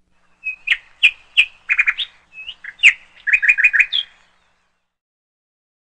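Bird chirping: a series of short, sharp chirps, some single and some in quick runs of four or five, stopping a little after four seconds in.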